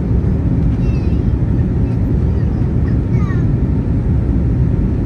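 Steady low rumble of aircraft noise, with two faint, short falling higher sounds about a second in and again around three seconds in.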